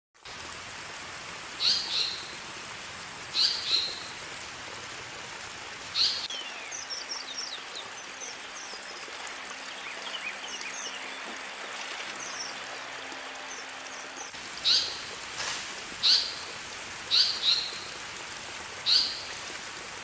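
Asian paradise flycatcher giving short harsh calls, often doubled, every second or two, with a stretch of fainter twittering in the middle. A steady high-pitched whine runs underneath.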